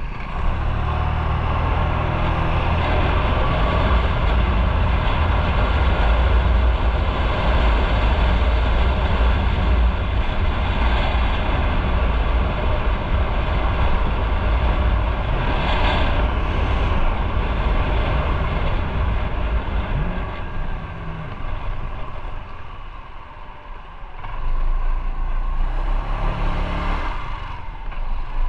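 Motorcycle engine running while riding, with wind noise. It eases off for a couple of seconds near the end, then picks up again.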